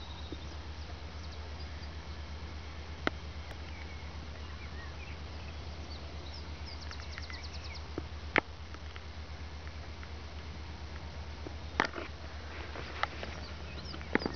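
Wood warbler singing: a high, fast trill of ticking notes about halfway through, with scattered short high notes around it. A steady low hum runs underneath, and a few sharp clicks stand out as the loudest sounds.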